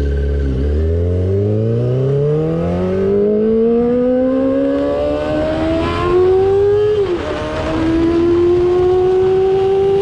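Yamaha YZF-R6's 600 cc inline-four engine accelerating under load, its pitch rising steadily for several seconds, then dipping sharply about seven seconds in at a gear change and holding a nearly steady pitch afterwards.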